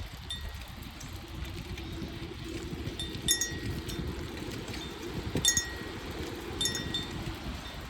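Riding a bicycle: a steady low rumble of wind and rolling tyres, broken four times by a short metallic ping.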